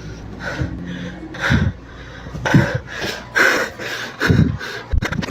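A person breathing heavily and unevenly close to the microphone, about one loud breath a second.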